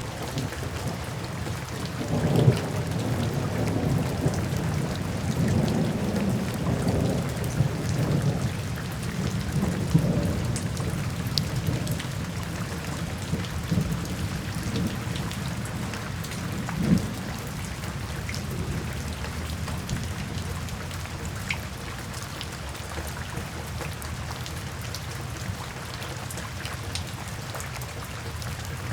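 Steady rain falling, with low rolling thunder rumbling in about two seconds in and dying away after about seventeen seconds.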